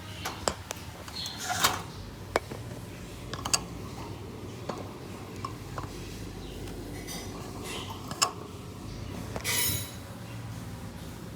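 Scattered small clicks and clinks, with a short scraping rustle about a second and a half in and another near the end, over a low steady hum.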